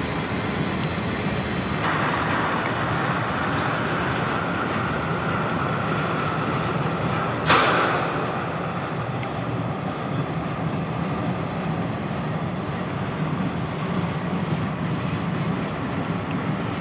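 CSX freight train rolling slowly past, a steady low rumble with a higher hissing tone that comes in about two seconds in and slowly drops in pitch. One sharp bang about halfway through is the loudest sound.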